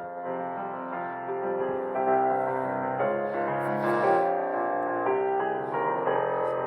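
Gentle piano music with sustained notes, swelling slightly about two seconds in.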